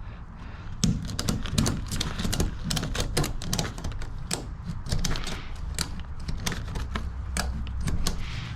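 Ratchet tie-down strap being cranked tight, its ratchet clicking in quick, irregular runs from about a second in, as the strap pulls the motorcycle down.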